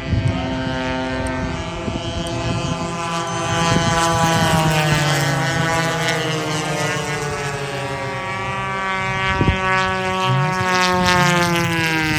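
Several gas-engined radio-control warbird models racing overhead, their engines and propellers droning together; the pitch of one drops as it passes, about four seconds in, and again near the end.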